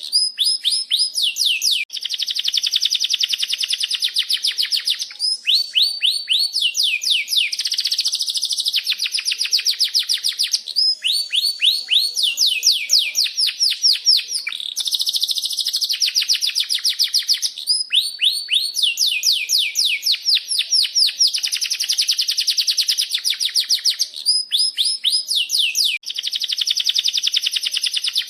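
Domestic canary singing a long, continuous song of rolling trills: runs of quick falling notes repeated many times a second, broken only by brief pauses between phrases.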